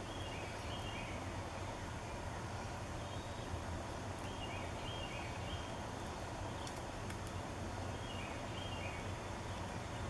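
A songbird calls three times, each a short group of quick high notes stepping downward, over steady outdoor background noise with a low hum.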